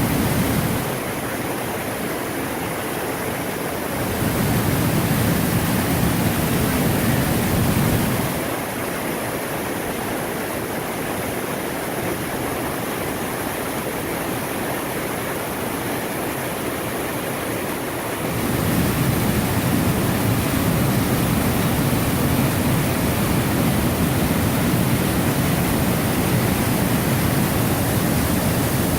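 Large waterfall rushing as a steady, loud wash of water noise. A deeper, heavier low rumble comes in and drops out abruptly in stretches: gone from about a second in to four seconds, back until about eight seconds, gone again until about eighteen seconds, then back to the end.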